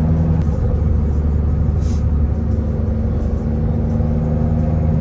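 Inside the cabin of a 2012 Mini Cooper Coupe John Cooper Works at highway speed: its turbocharged four-cylinder engine runs with a steady low drone under road noise.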